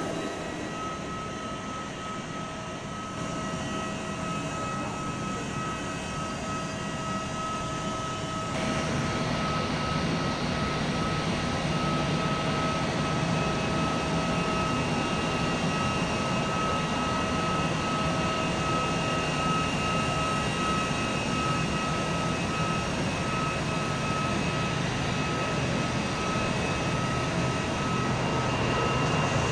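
Bombardier CRJ1000 jet's twin rear-mounted turbofan engines running, a steady rush with a constant high whine; about eight seconds in the sound grows fuller and a little louder.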